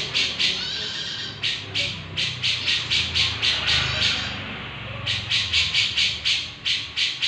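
Grey-cheeked bulbul (cucak jenggot) giving harsh, rapid, repeated chattering calls, about four a second in runs, broken by two short pauses.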